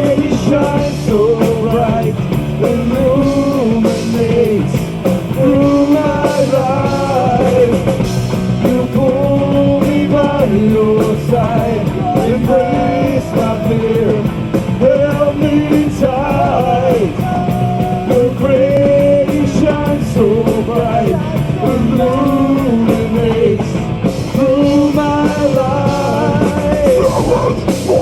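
Live metal band playing: distorted guitars and bass over fast drums, with a held, stepping melody line on top.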